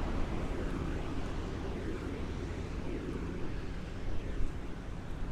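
Steady rushing noise of wind on the microphone over the wash of ocean surf, with a few louder gusts or bumps about four seconds in.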